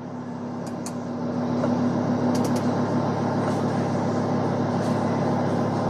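2015 Lamborghini Huracán's V10 idling during its cold-start warm-up, the engine still cold with its rev limit held low until the oil heats. The steady idle grows louder over the first two seconds, then holds steady.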